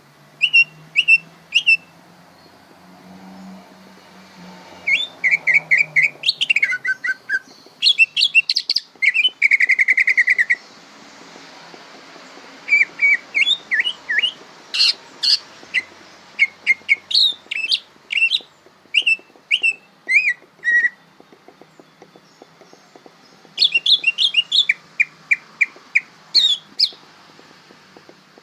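Green leafbird (cucak ijo) singing in phrases of rapid, repeated chirps and whistles, with pauses between phrases: a young bird still learning its song.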